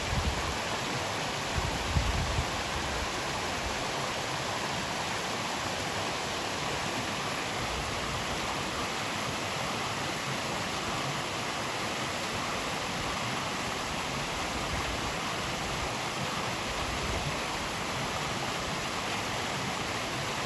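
Steady rushing of a flowing mountain stream, an even hiss with no change, and a couple of low knocks in the first few seconds.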